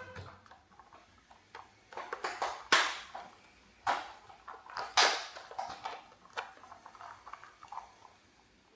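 Toys being handled: scattered clicks and rustling, with louder scraping swishes about three and five seconds in.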